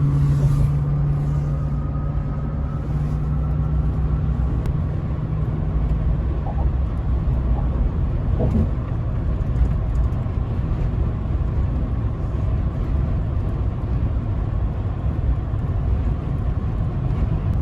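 Road and engine noise heard from inside a vehicle at highway speed: a steady low rumble, with an engine drone that fades out about six seconds in.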